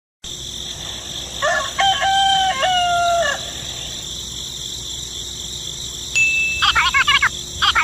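A rooster crows once, a long call held in a few steady segments, followed near the end by rapid high chirping, with a steady high-pitched hiss underneath.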